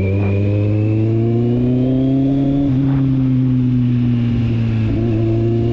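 Kawasaki Z750's four-cylinder engine and exhaust running under way. The pitch climbs gently for about two and a half seconds, dips briefly, then eases back down, with another short dip near the end.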